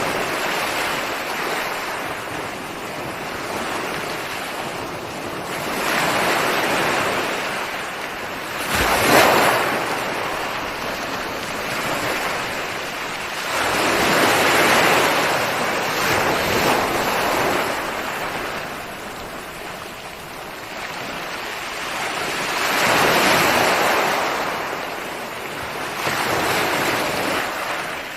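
Ocean waves breaking and washing onto a shore, rising and falling in about five surges, with the sharpest and loudest break about nine seconds in.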